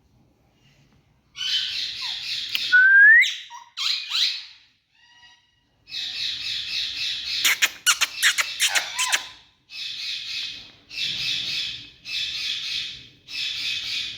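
Indian ringneck parakeet squawking: harsh, rapidly pulsed calls in bouts of one to three seconds, starting after a moment of silence. A single rising whistled note comes about three seconds in.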